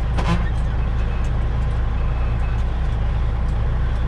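Semi-truck diesel engine running with a steady low rumble, with a short sharp sound about a quarter second in.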